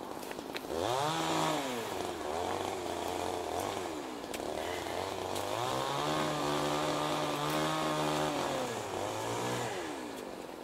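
A small petrol engine revving up and down several times, held high for a few seconds in the middle before dropping back toward idle near the end.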